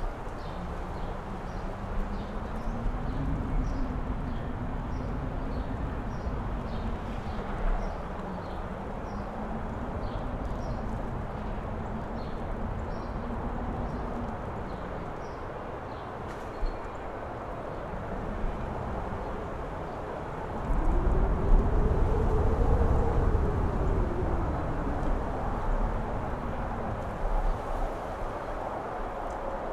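Strong wind howling in gusts, with a wavering low tone through steady rushing noise. About two-thirds of the way through, a stronger gust swells, its howl rising in pitch, then eases off again.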